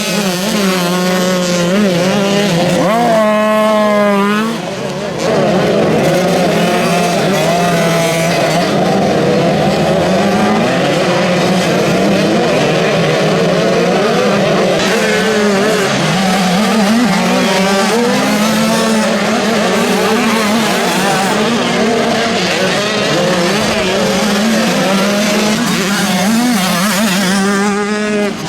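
Several motocross bikes racing, their engines revving up and down through the gears as they accelerate and pass, with a brief dip in loudness about four seconds in.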